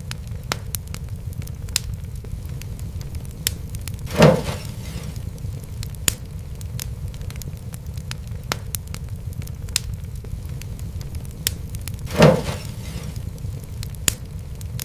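Wood fire crackling: scattered sharp snaps over a steady low rumble. Two louder pops stand out, one about four seconds in and another about eight seconds later.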